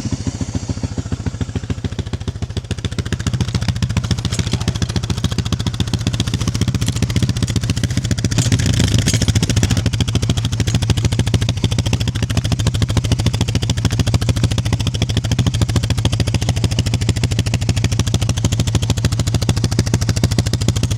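ATV (four-wheeler) engine idling steadily with a fast, even putter, running after a jump-start from a booster because its battery is bad. It picks up a little for a couple of seconds partway through.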